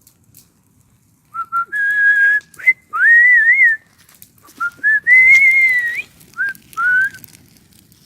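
A person whistling a short tune: a single clear tone in several phrases that rise and fall, starting about a second in and stopping about a second before the end.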